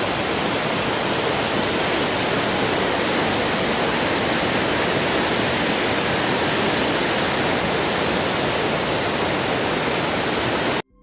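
Waterfall: a steady, even rush of falling water that starts and stops abruptly.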